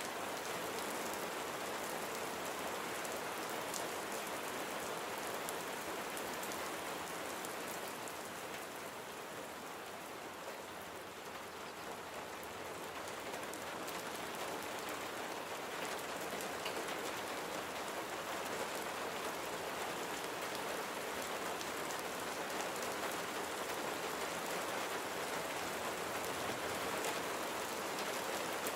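Steady rain falling and pattering on surfaces, with scattered individual drop ticks; it eases slightly for a few seconds near the middle.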